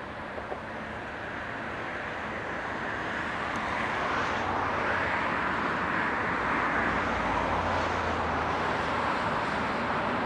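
Train rolling past, a steady rumble and hiss that grows louder over the first few seconds and then holds.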